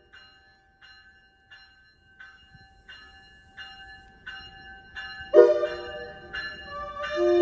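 Train's bell ringing steadily, about one and a half strokes a second and growing louder as the train approaches, with a short horn blast about five seconds in and the horn sounding again near the end.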